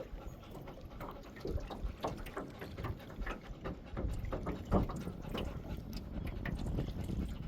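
Water lapping and slapping irregularly against the hull of a small boat, under a low wind rumble.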